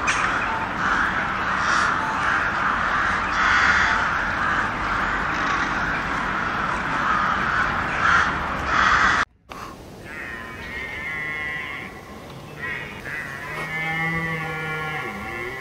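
Dense chorus of many crow-like birds cawing at once, which cuts off abruptly about nine seconds in; scattered, wavering pitched calls follow.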